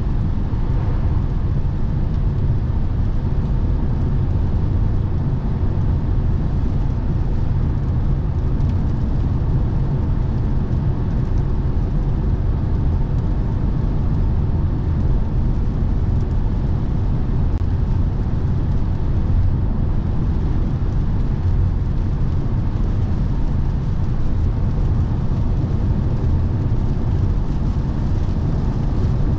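Steady road and tyre rumble with drivetrain hum inside the cabin of a 2017 Lexus NX 300h hybrid cruising on the motorway, an even low drone with no change in pitch.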